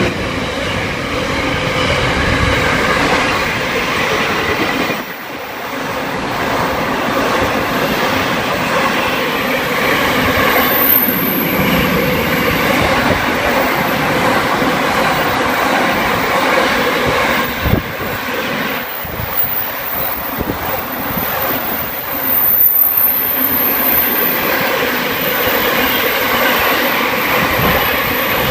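A pair of NR class diesel-electric locomotives standing with their engines running: a loud, steady engine drone with a continuous hum of tones, dipping briefly a few times.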